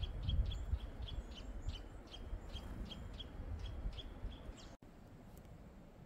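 A small bird repeating a short, high call about three to four times a second over a low rumble. Both stop abruptly near the end, leaving only a faint steady hush.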